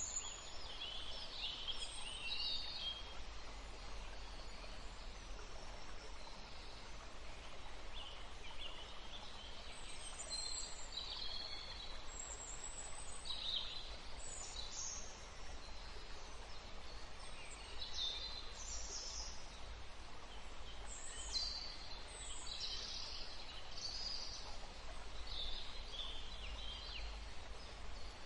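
Several songbirds singing and chirping, many short high calls and trills overlapping and scattered throughout, over a steady faint background hiss and low rumble.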